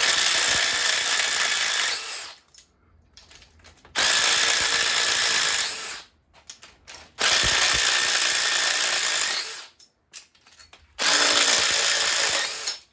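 Handheld power tool run in four bursts of about two seconds each, with a thin high motor whine, spinning fasteners off the 1984 Chevy engine's top end.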